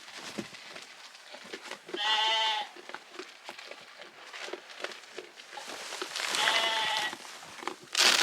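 A sheep bleating twice, each bleat lasting well under a second, with faint scattered clicks and rustling between the bleats and a brief louder noise near the end.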